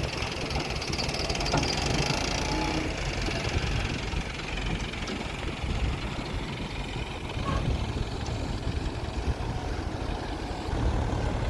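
Heavy diesel engine running steadily, with a deeper, louder rumble coming in near the end.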